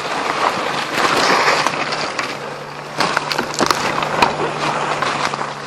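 Footsteps crashing through dry forest undergrowth: leaves and brush rustling and crunching underfoot, with sharp twig snaps now and then.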